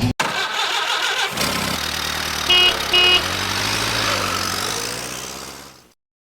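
A vehicle running, with two short horn honks about two and a half seconds in. The sound fades out to silence near the end.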